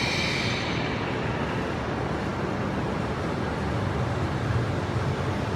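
Steady low rumbling hum of an E5-series shinkansen train standing at the platform, with some higher hiss that fades out about half a second in.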